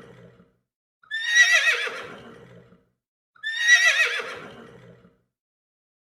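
Horse whinnying: the end of one call, then the same whinny twice more, each a high, quavering neigh that falls away and fades lower over under two seconds.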